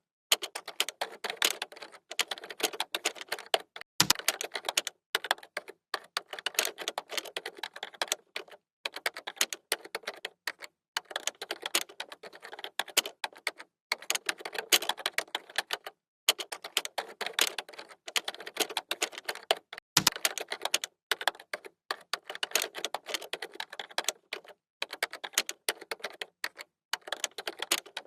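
Fast, continuous typing on a computer keyboard: a dense run of key clicks broken by brief pauses, with a heavier key thump twice.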